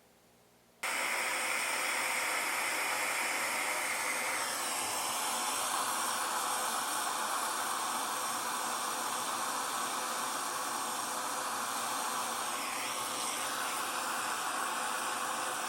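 Jeweller's gas torch flame hissing steadily, starting suddenly about a second in, with its tone shifting slightly twice.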